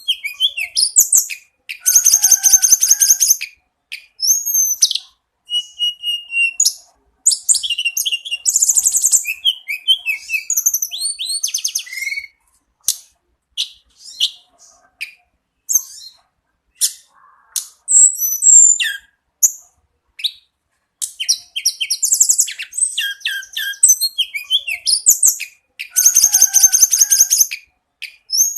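A tledekan gunung singing continuously: varied phrases of high, rapid chirps, buzzy trills and short whistled notes, broken by brief pauses. The same loud trilled phrase comes twice, near the start and near the end.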